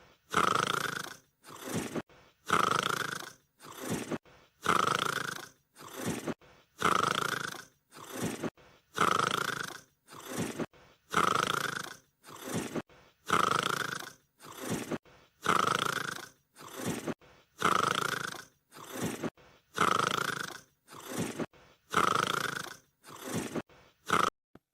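A sleeping dog snoring in an even rhythm, about one breath every two seconds. Each breath brings a loud snore followed by a shorter, quieter one. It stops abruptly just before the end.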